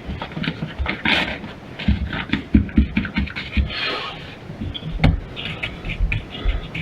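Irregular scraping and knocking of drywall being cut and broken out of a wall by hand, with low thumps in between.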